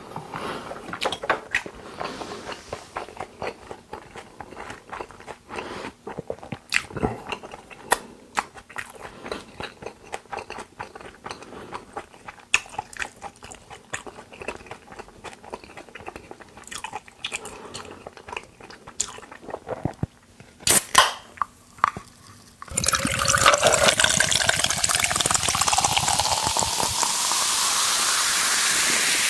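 Close-up wet chewing and smacking mouth sounds of a person eating raw beef, many short clicks. About 23 seconds in, a loud steady hissing sound cuts in, with a tone rising slowly in pitch.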